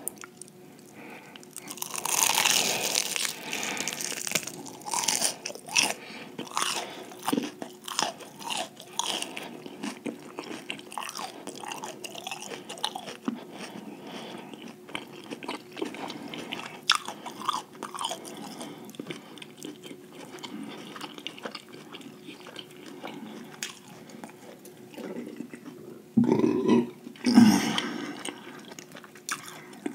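Close-miked chewing of a batter-fried lobster tail: a loud crisp crunching bite about two seconds in, then steady chewing with many small crunches and mouth smacks. A short louder burst comes near the end.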